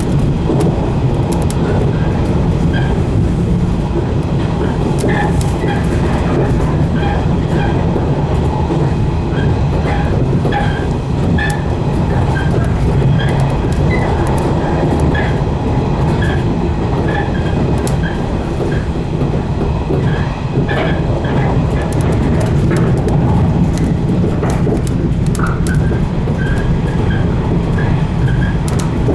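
115 series electric multiple unit running along the line, heard from inside the driver's cab as a steady rumble. Wheels clack over rail joints, with many short clicks throughout.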